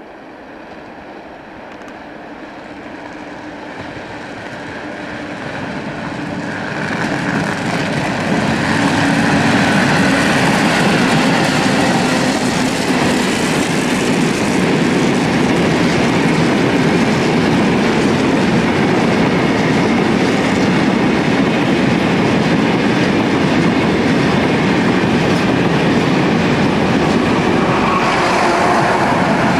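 Freight train hauled by an electric locomotive approaching and passing close by. The rumble grows over the first eight seconds or so, then holds steady as the locomotive and a long line of goods wagons roll past on the rails.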